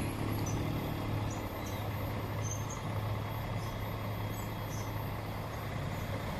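Heavy truck's diesel engine running with a steady low drone, over road noise.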